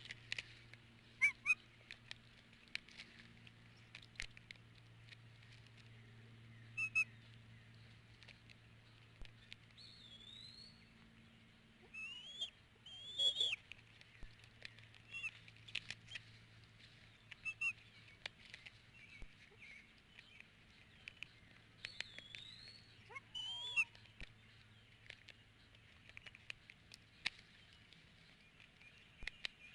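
Birds calling in a scattered run of short, high chirps and whistles, some sliding up and down in pitch, with sharp clicks between them, over a low steady hum.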